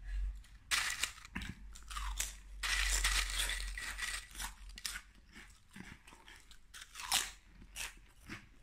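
A person chewing crunchy food close to the microphone: irregular bursts of crunching with quieter chewing between, the loudest stretches about a second in and from nearly three to four seconds in.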